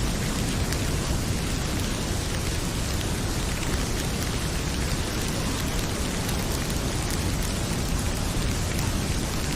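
Heavy rain pouring steadily, with faint scattered pops of a crackling wood fire.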